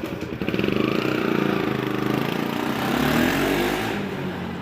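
Bajaj Pulsar NS200's single-cylinder engine running and being revved. The pitch climbs and gets louder a little past halfway, then settles back.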